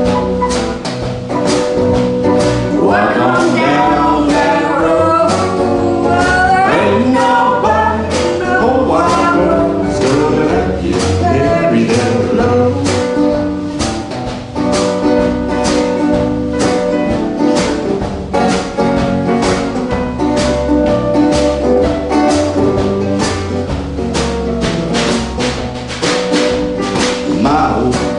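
A band playing a song live, with a steady beat, guitar and singing.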